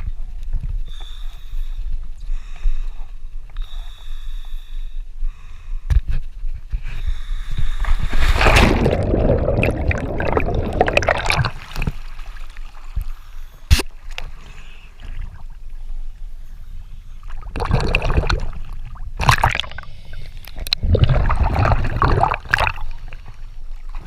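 Water bubbling and gurgling in irregular surges, the longest lasting about three seconds from around eight seconds in, with a single sharp click about halfway through.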